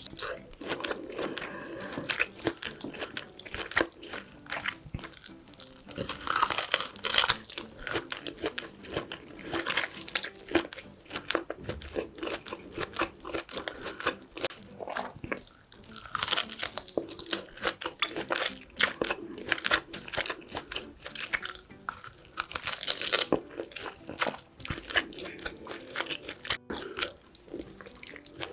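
Close-miked chewing and biting: the wet, crunchy sounds of eating braised pork ribs with kimchi, with louder bursts of bites about six, sixteen and twenty-two seconds in.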